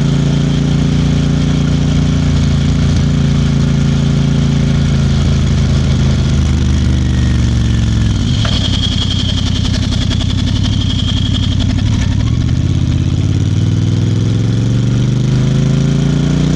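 Royal Enfield Bear 650's 648 cc parallel-twin engine heard from the bike while riding: the engine note falls as it slows over the first eight seconds or so, runs low for a few seconds, then rises again as it accelerates near the end. A thin high tone sounds for a few seconds in the middle.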